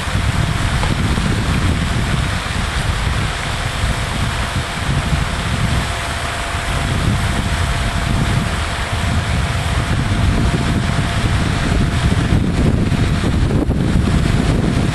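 Wind buffeting the microphone: a loud, unsteady low rumble with a steady rushing hiss over it.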